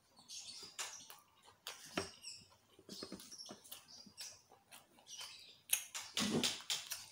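Close-up eating sounds: a person chewing food with wet mouth clicks, smacks and small crackles, and a louder stretch of chewing about six seconds in.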